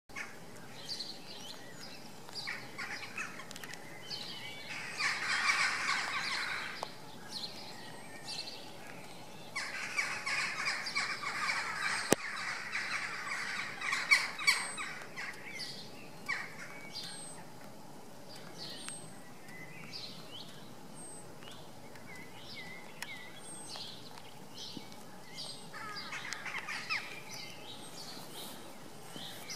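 Songbirds chirping and calling outdoors, with short high whistled notes repeating about once a second. There are two longer bouts of dense chattering, about five seconds in and again from about ten to fifteen seconds.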